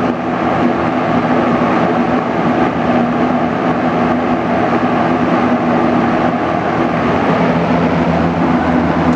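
Frigid XG-20 (Lakewood S-223) three-speed box fan running on medium: a steady rush of air from the blades over the motor's hum, running at fairly high speed, as this fan does on every setting. Near the end the hum shifts to a lower pitch.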